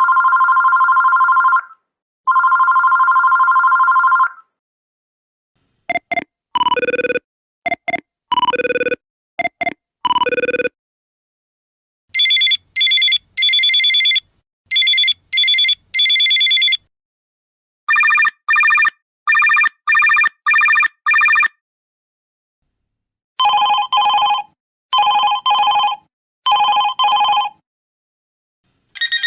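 Several different electronic telephone ringtones, one after another. First comes a steady two-pitch ring sounded twice, then a short tune of alternating beeps, then a few rings made of quick repeated bursts at differing pitches, each pattern repeated two to six times.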